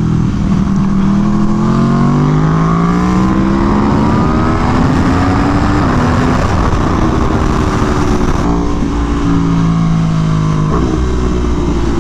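Aprilia Tuono V4 1100 Factory's V4 engine accelerating hard, revs climbing steadily for about five seconds, easing off around six seconds in, then pulling again with a quick gear change near the end. Heavy wind rush runs underneath.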